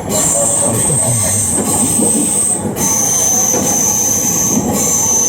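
Train moving along the track with a loud, steady high-pitched wheel squeal over the running noise; the squeal drops to a slightly lower pitch about three seconds in.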